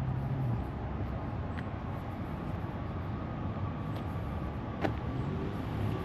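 Steady road-traffic noise, a car engine's low hum under a wash of tyre and street sound, with a single sharp click about five seconds in.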